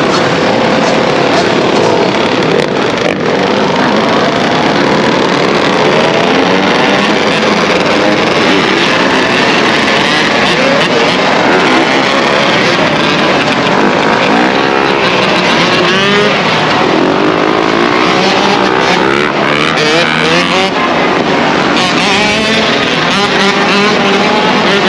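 Many dirt bike and ATV engines revving and riding together, with several engine pitches rising and falling over one another.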